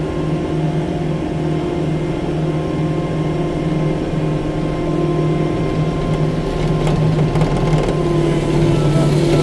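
Diesel engine of a 6-ton tracked skid steer loader running steadily at working speed, with a slight rise in loudness near the end.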